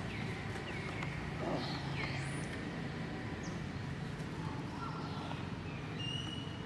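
Several short high animal calls, each sliding down in pitch, over a steady low hum.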